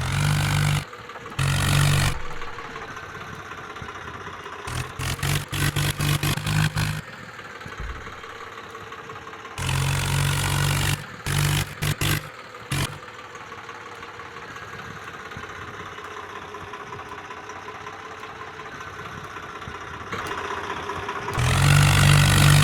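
A vehicle horn sounding in repeated blasts of steady pitch, some long and some rapid short toots, over a tractor engine running steadily underneath.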